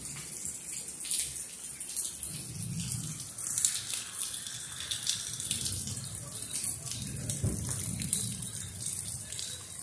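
Heavy storm rain pouring down and splashing on flooded ground.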